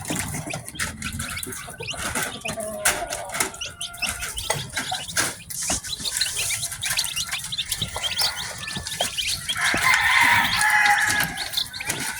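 A batch of newly hatched chicks peeping: many short, high chirps overlapping, mixed with frequent sharp clicks and taps. About ten seconds in, a louder, lower run of calls rises over the peeping.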